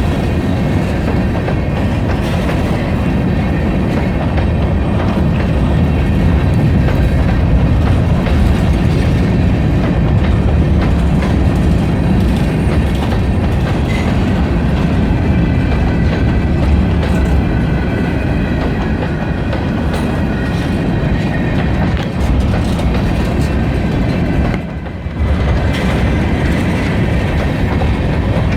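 Freight train rolling past: a steady rumble of wheels on rail with the clickety-clack of cars over rail joints and faint high wheel squeal. It dips briefly near the end.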